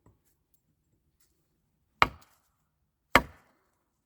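Two sharp wooden knocks about a second apart: a 2x4 board being struck hard against something, in the manner of a makeshift mallet.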